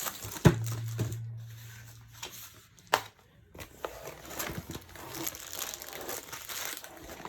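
Plastic packaging from a diamond-painting kit crinkling as it is handled. There is a sharp knock about half a second in, followed by a low hum for a few seconds, and another sharp click about three seconds in.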